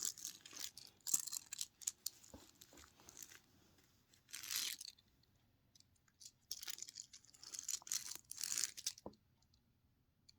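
Small toys being pushed and handled over a surface: on-and-off gritty scraping and rustling in several short spells, with one sharp click near the end.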